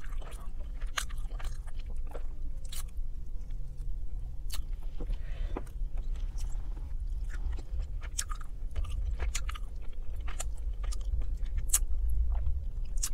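Close-miked chewing of roasted chicken: wet mouth sounds, smacking and soft crunches in uneven short clicks, over a low steady hum.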